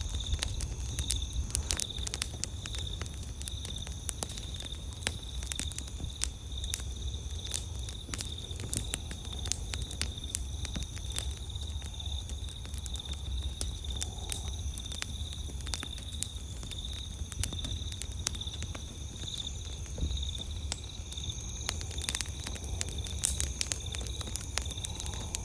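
Campfire crackling, with frequent irregular sharp pops and snaps over a steady low rumble. Night insects keep up a continuous high trill behind it.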